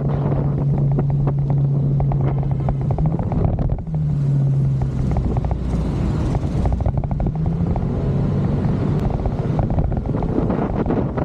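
Motorcycle engine running at road speed with heavy wind buffeting on the microphone. The engine note breaks off briefly about three and a half seconds in, then picks up again.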